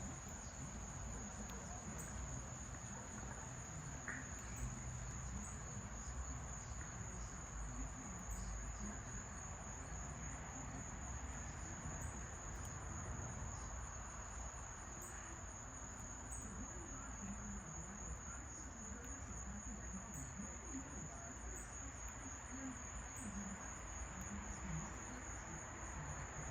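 Steady, high-pitched trill of insects, unbroken throughout, over a faint low outdoor rumble.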